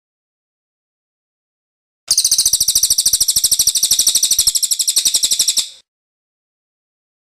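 A cililin bird's rolling song: one rapid, even, high trill of about a dozen notes a second, starting about two seconds in and lasting about three and a half seconds before stopping abruptly, with dead silence either side.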